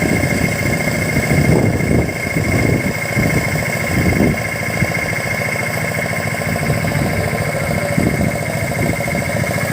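An engine running steadily, with a low rumble that swells and fades irregularly.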